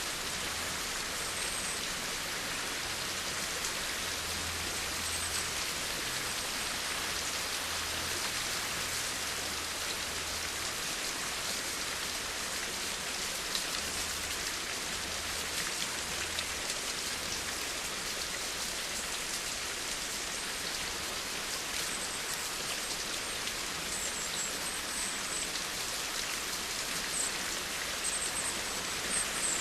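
Steady rain falling: an even hiss of many drops.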